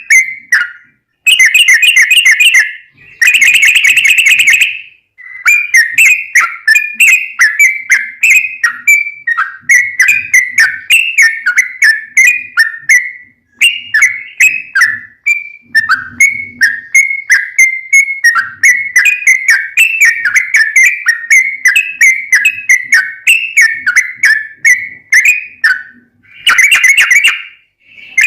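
Yellow-vented bulbul (trucukan) singing a long, rapid run of clear, bubbly whistled notes, rising and falling around one pitch band, with only brief pauses. This is the chattering 'ropel' song kept as lure audio to set other bulbuls singing.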